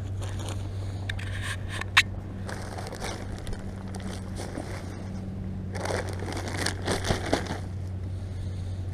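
A bag pulled up on a magnet-fishing line being handled and searched for metal, crinkling and scraping in short spells, with a sharp click about two seconds in and louder crackling near the end.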